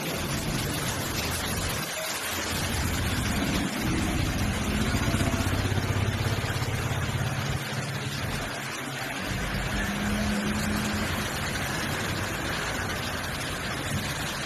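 Steady hiss of heavy rain, with a motor vehicle's engine humming through the middle, loudest about five seconds in and fading out after about ten seconds.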